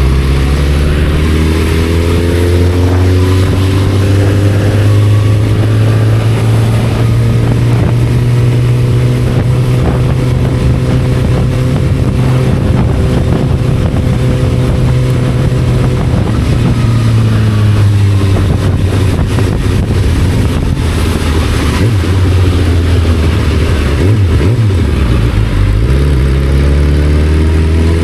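Motorcycle engine running under way: it climbs in pitch over the first few seconds, holds steady, drops off about two-thirds of the way through, then picks up again near the end.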